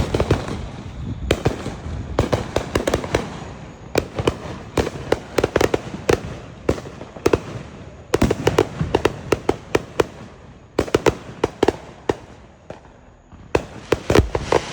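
Firecrackers going off in rapid strings of sharp pops, in several bursts with short pauses between them.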